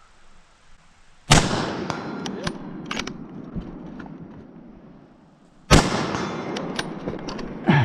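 Two gunshots about four and a half seconds apart, each with a long echoing tail, and faint sharp ticks between them. Another sharp report comes right at the end.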